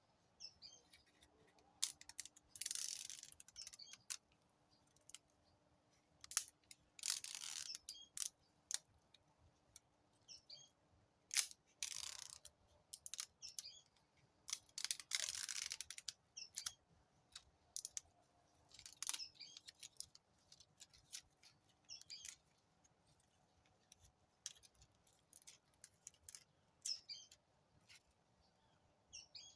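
Short bursts of noise every few seconds, with faint bird chirps between them.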